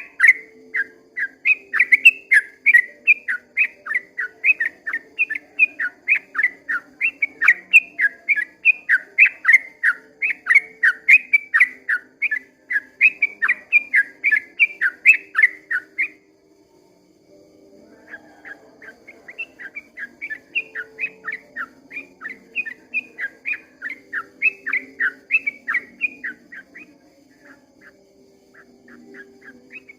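Yellow-vented bulbul (trucukan) singing a long rapid run of chirping notes, about four a second. It breaks off a little past halfway, starts again a couple of seconds later, pauses once more and resumes near the end.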